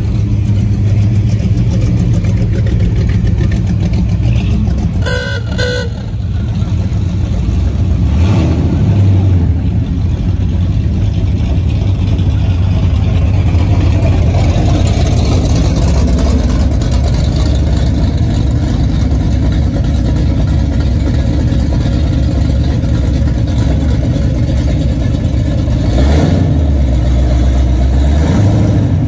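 Classic cars cruising past with a steady low engine rumble. A car horn toots twice about five seconds in, and an engine revs up briefly near the end.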